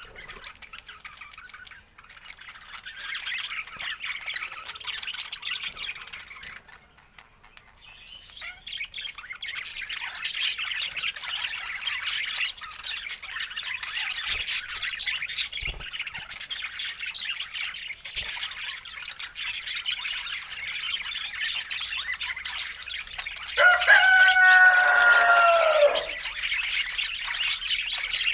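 Budgerigars chattering and warbling, with a busy stream of high chirps that fades briefly about a quarter of the way in. Near the end comes a louder, lower, drawn-out squawk lasting about two seconds.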